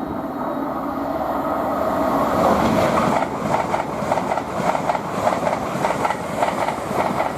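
LNER Azuma (Class 800) train passing at speed. The rushing noise builds over the first couple of seconds, then settles into a rapid, regular clatter of wheels over rail joints.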